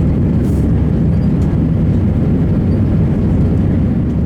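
Steady, low engine and airflow noise inside the cabin of an Airbus A320 in flight.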